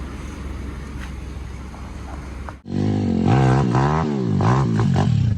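YCF pit bike engine: a steady low running rumble with rushing noise, then, after a sudden cut about two and a half seconds in, the engine revving up and down quickly several times.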